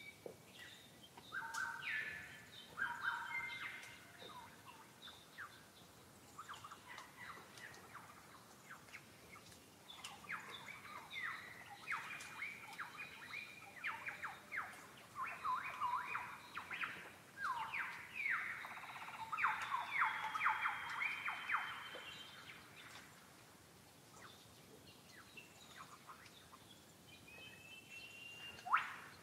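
Birds singing and calling: overlapping clusters of quick, repeated chattering notes, busiest through the middle. A single loud, sharp, upward-sweeping call comes near the end.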